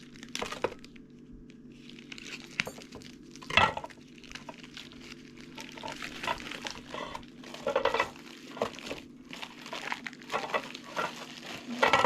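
Kitchen handling noises: plastic rustling and dishes clinking, with a couple of sharper knocks, over a steady low hum.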